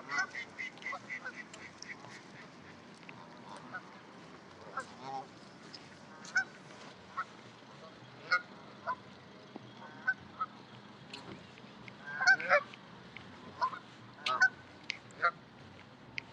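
Waterfowl calling: scattered short calls, with a cluster of louder ones about twelve seconds in.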